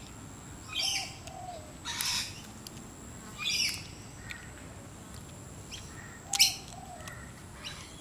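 Wild birds calling: short sharp chirps every second or two, the loudest about six seconds in, with a softer lower two-note call twice.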